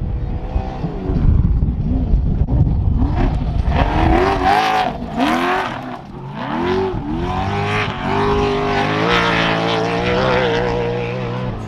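Trophy truck's race engine accelerating hard: its pitch climbs and drops several times as it revs up, then holds a high, steady note. Low rumbling noise underneath in the first few seconds.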